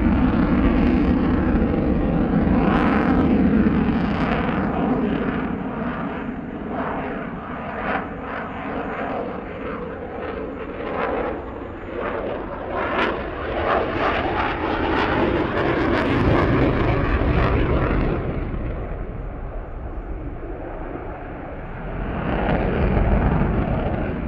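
Jet noise of a Eurofighter Typhoon's twin turbofan engines as the fighter flies its display, swelling and fading as it passes. There is a falling tone in the first few seconds, and the sound grows loud again about two-thirds of the way through and near the end.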